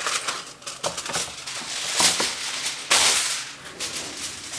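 Aluminum foil crinkling and crackling as it is pulled out and pressed over a baking dish, with many sharp crackles and two louder rustles about two and three seconds in.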